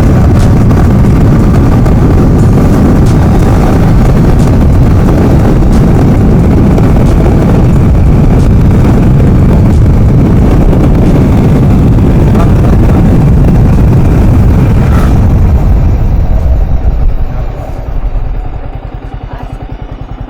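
A motorcycle riding along, with loud steady engine and road noise. About three-quarters of the way through it slows, and the engine drops to an even low putter at idle as the bike comes to a stop.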